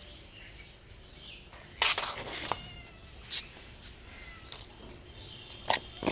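Hungry stray cats meowing softly for food: a few short meows, the loudest about two seconds in and another near the end.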